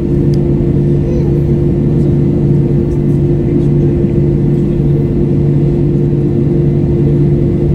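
Airbus A321's IAE V2500 jet engines heard inside the passenger cabin: a loud, steady drone with a low rumble and a few fixed humming tones.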